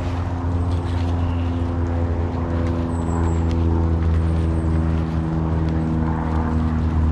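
An engine running steadily at one unchanging speed, a constant low hum.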